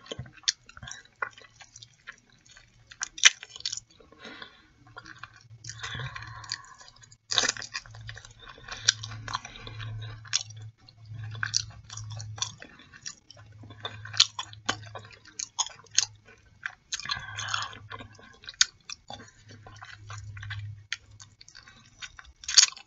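Close-miked chewing and lip smacking as a sauced chicken drumstick is bitten and eaten: irregular wet clicks and smacks, over a faint low hum.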